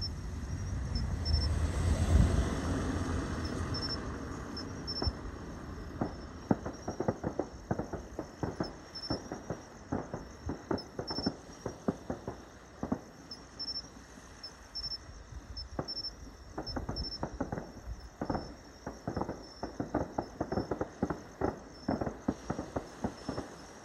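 Fireworks display: one loud boom about two seconds in that rolls away, then a long stretch of dense crackling pops.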